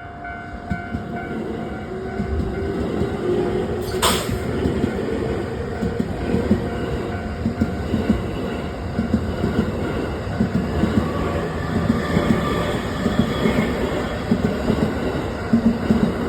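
A train passing a level crossing: a low rumble growing louder, with uneven knocks of the wheels over the rail. A short sharp burst comes about four seconds in.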